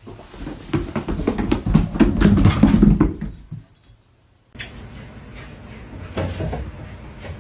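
A dog's paws and claws knocking and thudding on the steps as it makes its way down a staircase: a quick run of knocks for about three seconds, a sudden break, then fainter scattered knocks.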